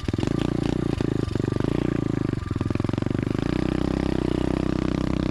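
SSR 125 automatic dirt bike's single-cylinder four-stroke engine running steadily as the bike is ridden, its note rising slightly a little past halfway.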